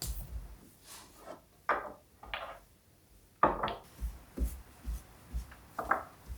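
Household objects being handled, with rubbing or scraping strokes on wood and a run of soft knocks in the second half.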